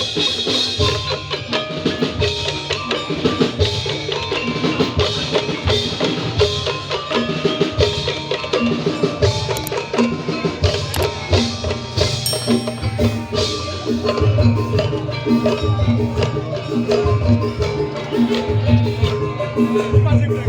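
Tongklek percussion ensemble playing: a melody of struck, tuned notes over steady low drum beats. A brief high whistle-like tone sounds about twelve seconds in.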